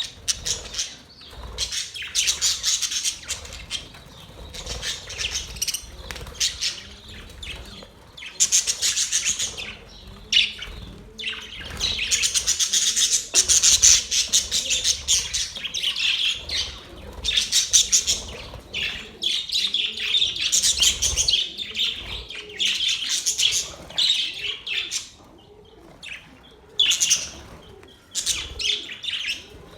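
Several budgerigars (budgies) chirping and chattering in a busy, near-continuous stream of quick high calls, with a few brief lulls.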